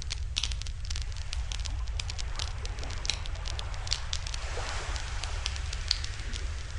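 Wood fire crackling, with many sharp, irregular pops over a steady low rumble.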